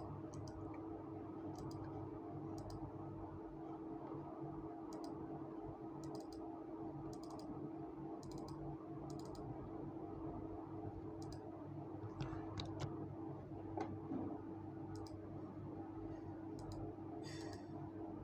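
Faint, irregular clicks and smacks of someone eating, scattered about once a second, over a steady low hum.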